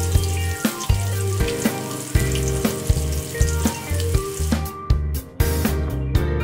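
Battered chicken pieces deep-frying in hot oil in a wok, a steady sizzle, under background music with a bass line and a regular drum beat. The sizzle cuts out about three-quarters of the way through, leaving only the music.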